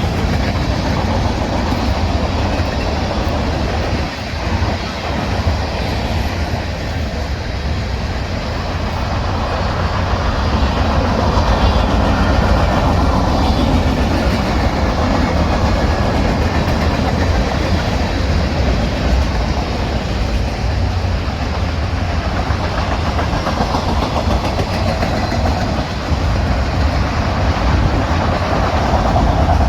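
A train rolling past, a steady rumble of steel wheels on the rails that lasts throughout.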